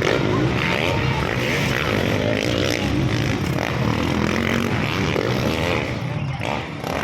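Motocross bike engines revving and running on the race track, their pitch rising and falling as riders work the throttle, dipping briefly near the end.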